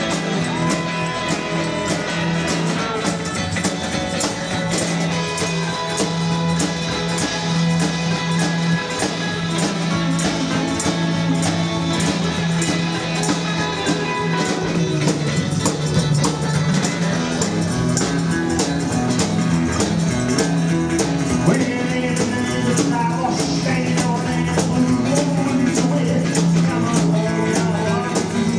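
Live rockabilly band playing: electric guitar, double bass and drums, with a quick, steady drum beat.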